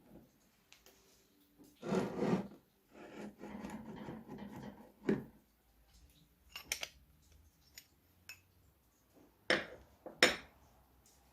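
Hand work on metal parts: two stretches of rubbing or scraping strokes, then a few separate sharp clinks and knocks, the last two near the end the loudest.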